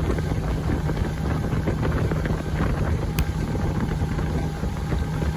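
Motorboat engine running steadily underway, a constant low hum, with wind buffeting the microphone.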